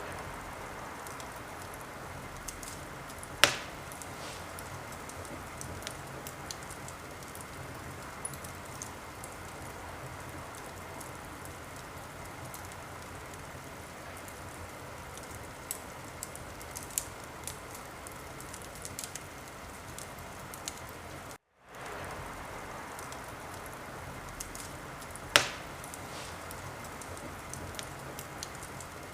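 Wood fire burning in a fireplace: a steady hiss with scattered small crackles and two loud pops, one about three seconds in and one near the end. The sound cuts out for a moment about two-thirds of the way through.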